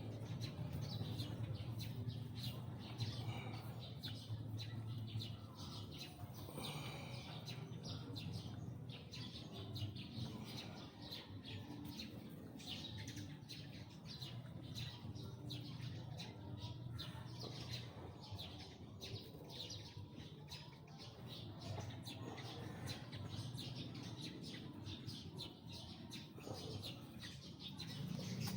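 Small birds chirping, many short high chirps in quick, irregular succession, over a low steady hum.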